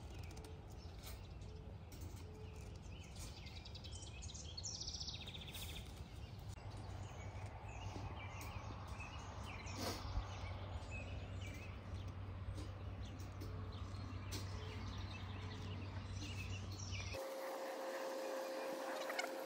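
Outdoor ambience of birds chirping over a steady low rumble, with one sharp click about ten seconds in. Near the end the rumble drops out and a steady mid-pitched tone is heard.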